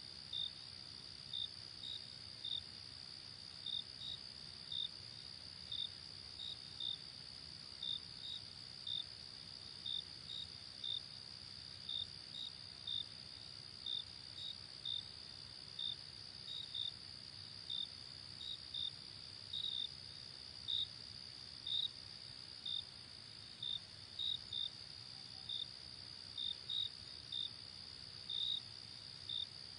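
Crickets chirping at night: short chirps about one to two a second over a steady, high insect trill.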